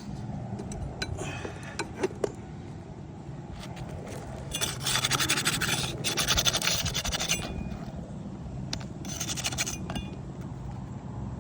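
Gritty scraping on asphalt roof shingles: a long stretch of rasping around the middle and a shorter one near the end, over a steady low hum.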